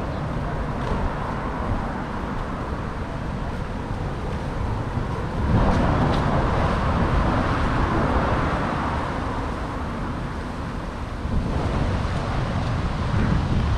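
Wind buffeting an action camera's microphone over street traffic, with a louder swell of traffic noise starting about five seconds in and slowly fading.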